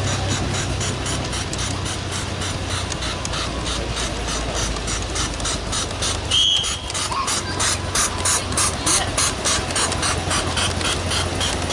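Small live steam model locomotive chuffing at about four exhaust beats a second over a steady steam hiss, the beats growing stronger in the second half. There is a brief high whistle about six seconds in.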